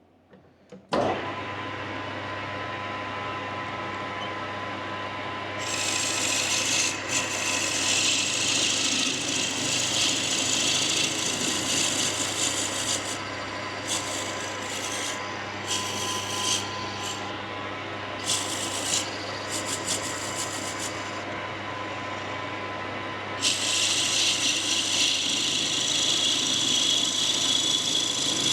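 A lathe motor starts about a second in and runs with a steady hum. From about six seconds in, a tool scrapes against the spinning wood with a hiss, stopping and starting several times: the end of the cue, plugged with an ebony dowel, being faced off.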